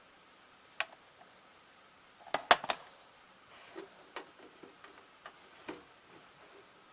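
Irregular clicks and knocks from handling a VHS cassette and VCR. The loudest come in a quick cluster about two and a half seconds in, followed by a few softer ticks.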